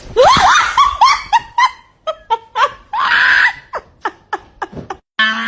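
A person laughing hard in a run of short bursts, with a high, scream-like stretch in the middle.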